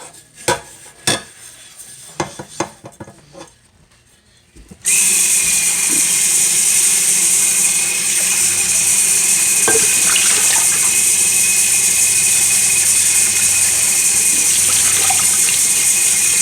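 A few light clinks of kitchenware, then a kitchen tap is turned on about five seconds in and water runs steadily and loudly into the sink.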